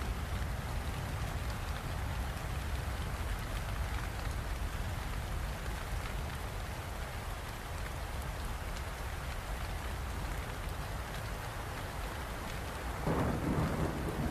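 Steady rain falling, with a low rumble under it; a roll of thunder swells up about a second before the end.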